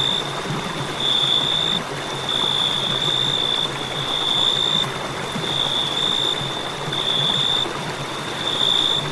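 Crickets trilling: one continuous high note that swells and fades every second or so, over a steady hiss.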